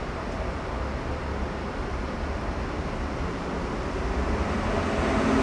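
Steady street traffic rumble, growing louder near the end as an engine hum comes in.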